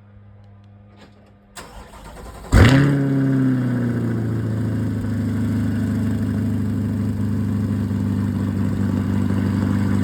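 2023 Chevrolet Corvette Stingray (C8) 6.2-litre LT2 V8 with an HTC performance exhaust, cold-started: a brief crank, then the engine catches about two and a half seconds in with a loud rev flare that falls back into a steady fast cold idle.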